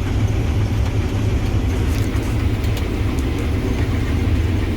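Combine harvester running steadily while harvesting wheat: a constant low drone, with a few faint ticks.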